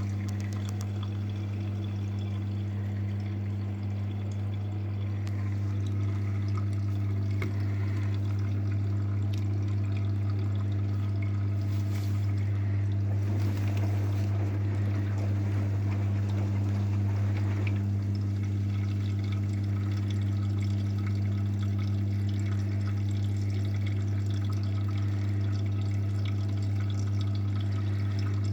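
AEG washing machine running with water pouring and splashing inside it over a steady low hum.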